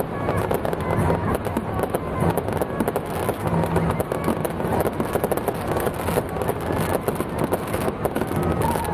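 Dense, continuous rapid crackling of exploding fireworks and firecrackers, with music playing underneath.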